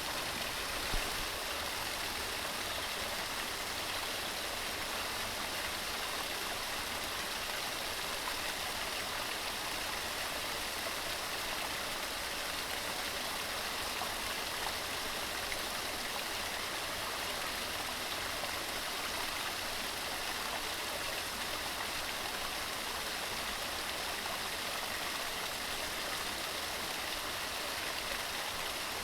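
Waterfall: water tumbling over rocks in a steady, unbroken rush. There is a brief low bump about a second in.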